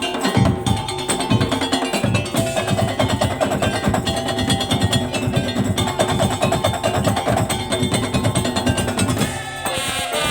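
Madurese daul (tongtong) percussion ensemble playing dense, fast drumming with a melodic line over it; the low drums drop back about nine seconds in.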